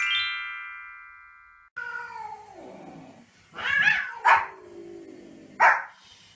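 A bright chime rings and fades over the first second and a half. Then a cat gives long, falling meows, and a small white spitz-type dog barks sharply a few times.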